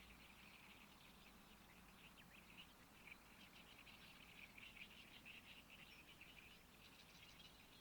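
Faint chorus of rapid, chattering animal calls by a river, an unbroken stream of quick pulses that swells and ebbs.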